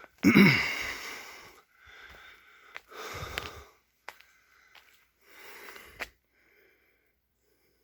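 A person breathing hard while climbing: three heavy breaths about two and a half seconds apart, the first voiced and falling in pitch, with a few light clicks between them. The breathing stops about a second before the end.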